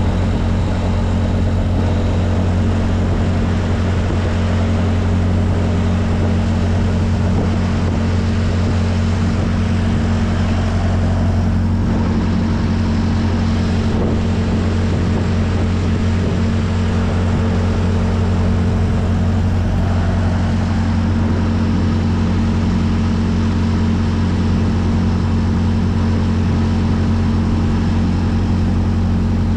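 Semi truck's diesel engine idling, a steady low drone with no change in speed.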